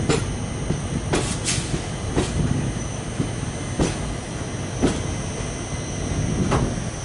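Train rolling past on the tracks: a steady rumble of wheels on rail, with sharp, irregular clacks as the wheels cross rail joints and points.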